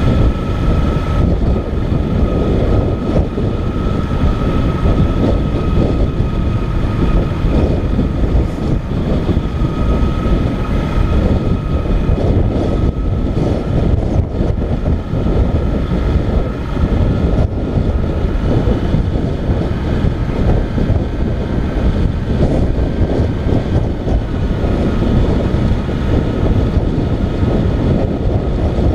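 Motorcycle riding along, engine running steadily under a heavy rush of wind on the microphone, with a faint steady whine.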